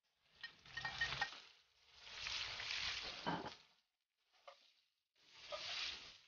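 Tomato wedges and green chilies sizzling as they hit hot oil with fried shallots and garlic in a wok, in several bursts as a slotted spatula stirs them. A few clicks of the spatula and plate against the pan about a second in.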